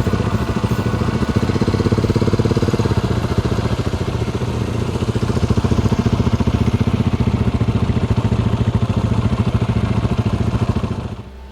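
Motorcycle engine running steadily with a rapid, even firing beat. It falls away sharply near the end.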